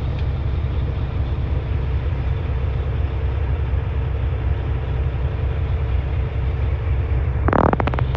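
Semi-truck's diesel engine running with a steady low rumble and a faint hum. Near the end a short rattling burst and a few sharp clicks.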